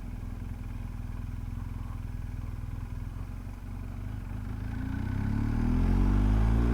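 BMW R 1250 GS Adventure's boxer-twin engine running at low revs while riding, then revving up as the bike accelerates over the last couple of seconds.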